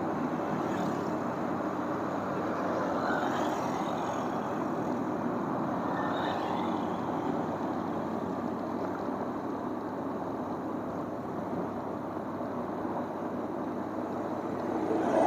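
Motorcycle riding along a road: steady engine hum under a constant rush of wind and road noise.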